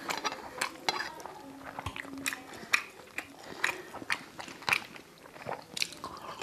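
Close-up chewing and eating noises from a person eating jeera rice and paneer curry by hand: irregular wet mouth clicks, smacks and bites.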